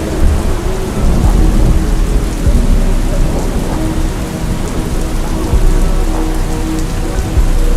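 Steady rain ambience with deep low rumbling, laid over a slowed-down, reverb-heavy hip-hop track with held synth notes.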